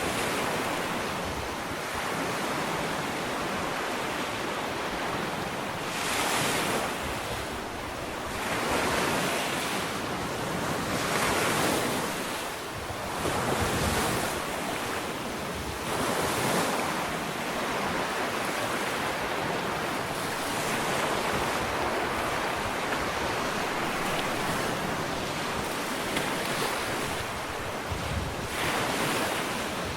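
Ocean waves breaking and washing up a sandy beach, a steady surf hiss that swells every few seconds as each wave comes in, with some wind on the microphone.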